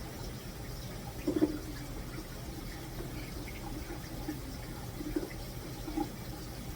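Water running steadily from a tap into a sink, with a few light knocks and clinks over it. The loudest knock comes about a second and a half in.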